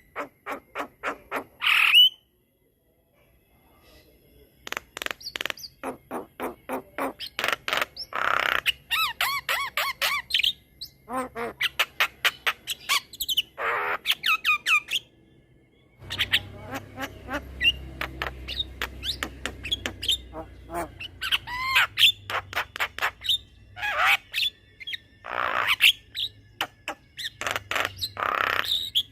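Javan myna (jalak kebo) calling: long runs of rapid clicking chatter broken by several loud, harsh squawks, with a brief pause near the start. A low steady hum sits under the calls in the second half.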